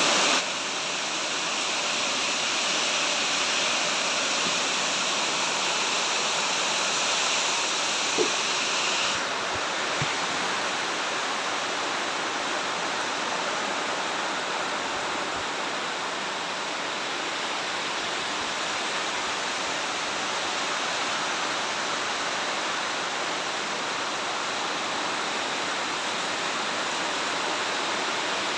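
Steady rain falling, an even hiss throughout. About nine seconds in, a brighter high-pitched layer of the hiss cuts off suddenly.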